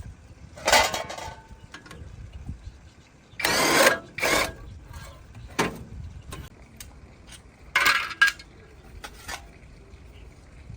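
Repair work with tools: several short, loud bursts of noise lasting about half a second each, with scattered clicks and knocks between them.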